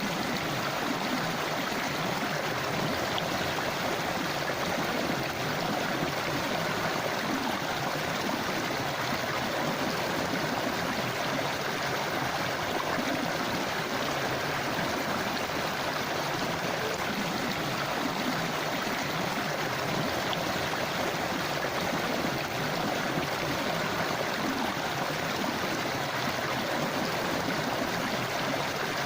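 River water flowing and gurgling over stones in a steady rush.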